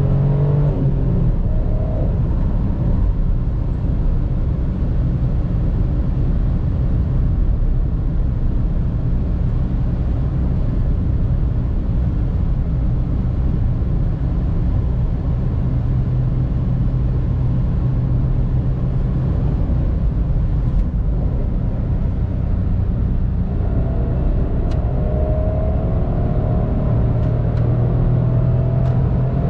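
Cabin sound of a Mitsubishi Space Star 1.2 MIVEC's three-cylinder petrol engine running on the move, over a steady road and tyre rumble. From about 24 seconds in, the engine note climbs in pitch as the car accelerates.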